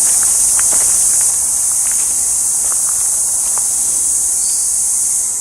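Loud, steady high-pitched buzz of an insect chorus. Footsteps crunch on the forest track during the first few seconds.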